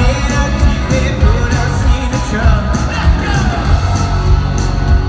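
A live rock band plays loud amplified music with a lead vocal over a steady drumbeat.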